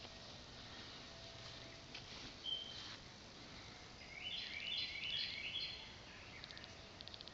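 Outdoor ambience with songbirds: a short high whistle about two and a half seconds in, then a longer phrase of quick, repeated falling chirps in the middle, and a fast dry trill near the end.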